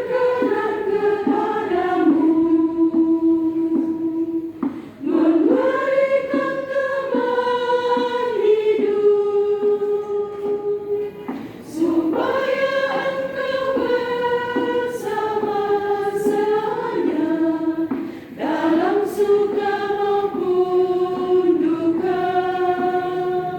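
Church choir singing a hymn in long held phrases, with short breaks for breath between phrases about every six seconds.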